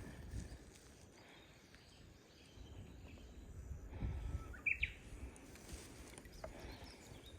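Wind buffeting the microphone in low rumbling gusts, strongest at the start and again about two-thirds of the way in, with a short bird chirp in the middle of the second gust.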